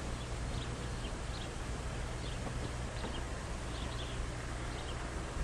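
Birds giving short, high chirps at irregular intervals, over a steady low hum and hiss.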